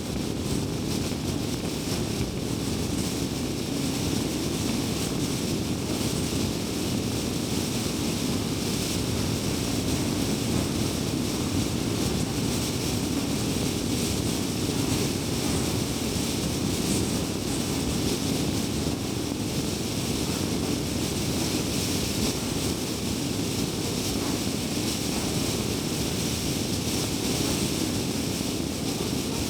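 Car driving steadily along a highway: a constant low rumble of tyres on the road surface, with engine and wind noise mixed in.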